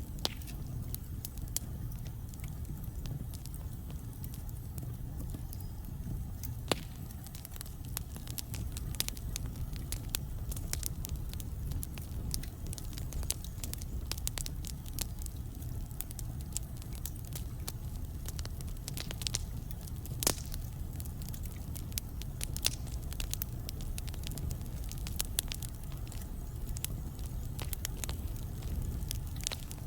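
Wood fire burning in a fireplace: irregular crackles and pops over a steady low rumble, with a sharper pop about twenty seconds in.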